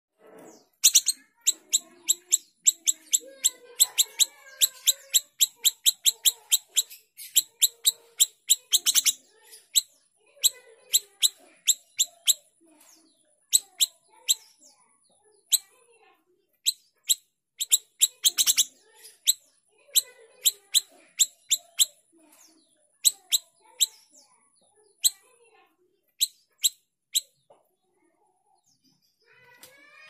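Small siri-siri calling in its cage: a long run of sharp, very short chips, several a second and in rapid bursts, stopping a few seconds before the end. A faint steady high whine sits under much of it.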